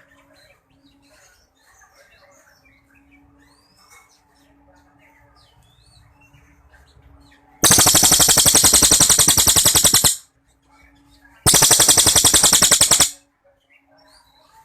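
A cililin songbird calling: faint scattered chirps, then two loud, fast rattling trills, the first about two and a half seconds long and the second shorter, the 'long shots' prized in songbird training.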